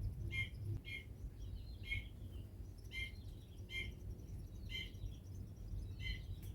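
A small bird chirping: about seven short, separate chirps at uneven gaps, over a steady low rumble.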